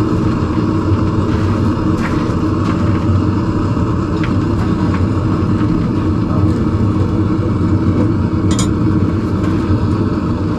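A forge running with a steady rumble while tongs heat in it, with a few faint clicks over it.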